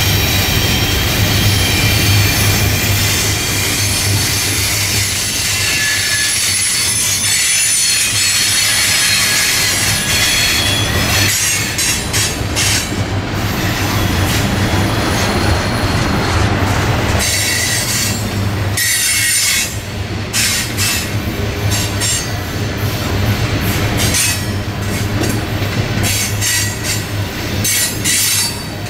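Freight train's hopper cars rolling past, steel wheels squealing on the rail in high tones through roughly the first ten seconds, then clicking and clattering over the rail joints above a steady low rumble.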